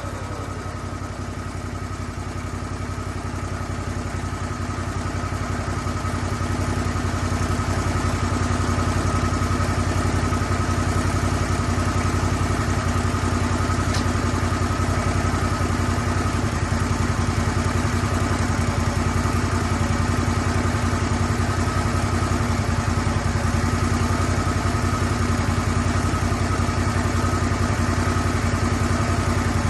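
Lucas Mill 10-30 swing-blade sawmill running steadily under engine power, growing louder over the first several seconds and then holding steady.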